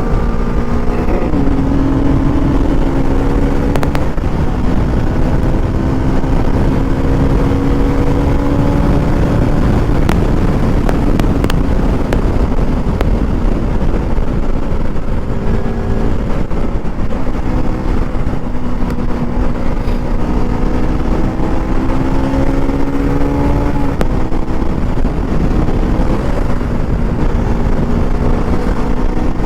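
KTM RC 200's 199.5 cc single-cylinder engine held at high revs on a top-speed run, over heavy wind rumble on the microphone. The engine note climbs slowly and drops once near the end, as at a gear change.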